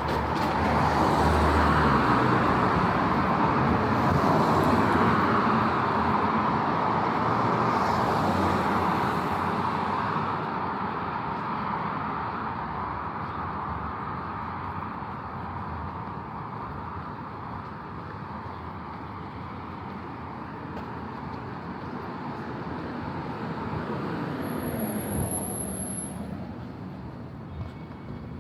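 Road traffic on a city street: cars passing close by, loudest over the first ten seconds and then fading, with another vehicle going by with a falling pitch near the end.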